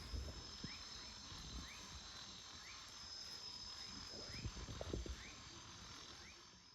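Faint insects trilling steadily at a high pitch, with short upward chirps repeating about every half second and a few soft knocks near the end.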